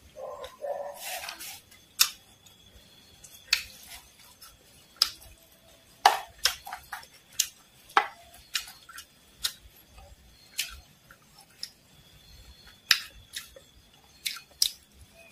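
Close-miked crunching of fried dried worms and mole crickets being chewed: sharp, irregular crunches one to three a second, with a metal spoon scraping the plate.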